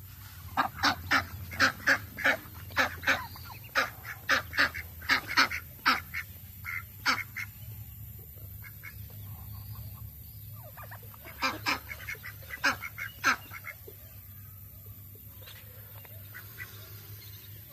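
Ducks calling: a rapid run of short, loud quacks for the first several seconds, then another brief run of quacks about eleven seconds in.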